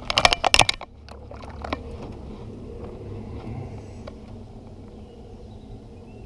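A quick run of sharp knocks and rattles within the first second, then a steady low hum.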